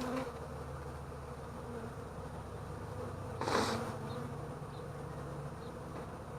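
Honeybees buzzing in a steady, low hum around an open hive. A brief hiss cuts in about three and a half seconds in.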